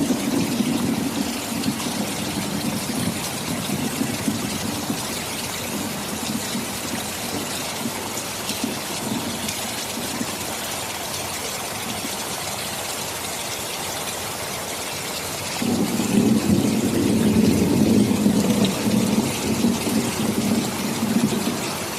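Steady heavy rain with a low rumble of thunder that fades out a few seconds in. About two-thirds of the way through, a louder roll of thunder rises and rumbles for about five seconds before dying away.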